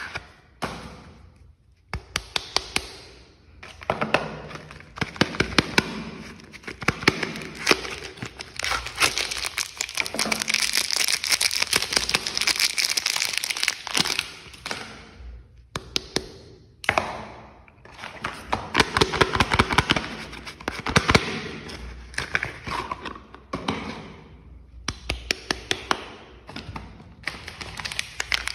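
Soap packaging being unwrapped by hand: wrappers crinkling and tearing in bouts, with many sharp crackles and a few short pauses.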